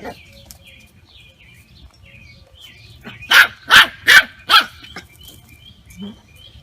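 Four short, loud animal calls in quick succession about three seconds in, over faint, scattered high chirps.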